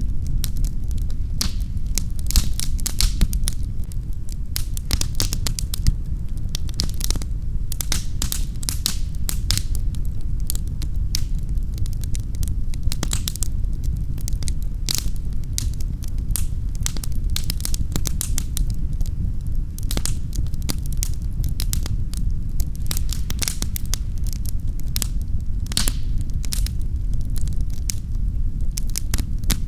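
Wood fire burning in a fireplace: a steady low rumble of flames with dense, irregular crackles and pops throughout.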